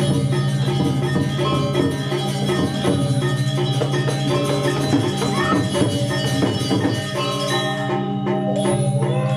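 Balinese gamelan playing: bronze metallophones ringing in many steady pitched tones, with the texture thinning about seven seconds in.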